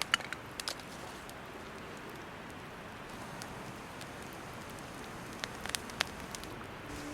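Wood campfire burning: a steady hiss with a few sharp crackles and pops.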